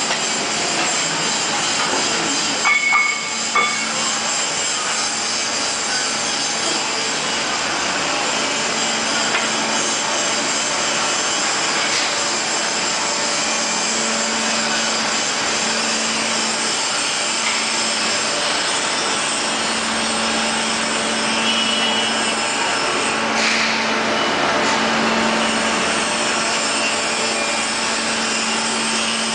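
End grinder running steadily, giving a continuous grinding noise over a steady hum, with a few brief louder knocks about three seconds in.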